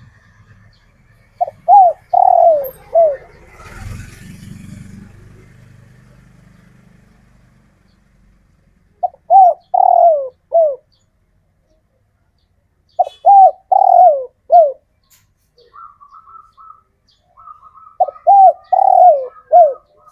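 Male spotted dove cooing: four phrases, each a quick run of three or four falling coo notes, several seconds apart. A faint low rumble comes and goes about four seconds in.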